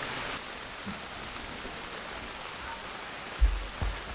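Steady rain falling, an even hiss. About three and a half seconds in come two dull low thumps.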